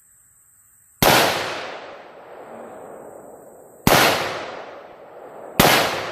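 Three rifle shots from a 5.56 rifle firing ballistic-tip rounds, about a second in, near four seconds and near the end. Each shot is sharp and followed by a long echo that fades away.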